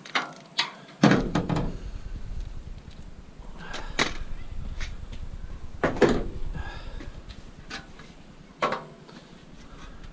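Scrap metal being handled and dismantled: a string of separate knocks and clanks, the loudest about a second in, then more around the middle and one near the end, over a low rumble that starts about a second in.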